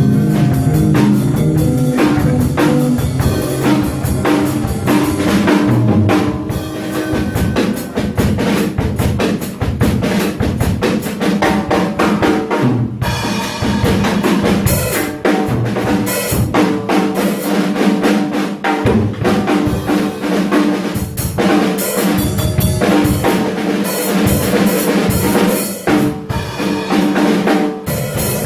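Jazz combo playing with the drum kit to the fore: rapid snare, bass drum and cymbal hits over sustained pitched notes from the other instruments.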